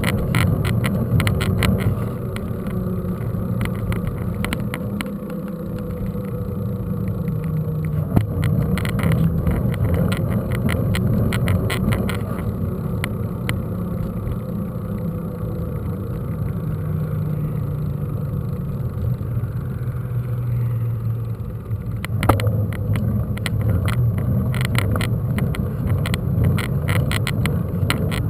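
Mountain bike ridden over rough ground, heard from a camera on the bike: a steady low rumble of wind and tyre noise with frequent clusters of rattles and knocks from bumps.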